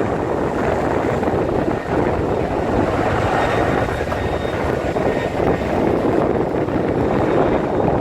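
Steady engine drone mixed with wind noise on the microphone.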